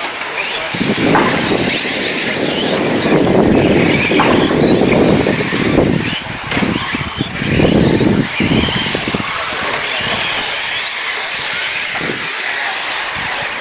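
Radio-controlled racing trucks running laps: thin motor whines rise and fall as they accelerate and brake. Heavy swells of tyre and track noise come in the first two-thirds.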